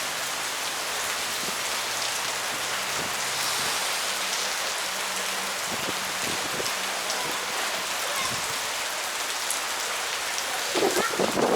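Steady rain-like hiss, with a few louder short sounds near the end.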